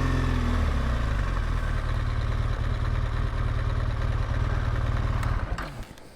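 BMW R1200GS Adventure's boxer-twin engine idling steadily, then switched off near the end and running down to a stop.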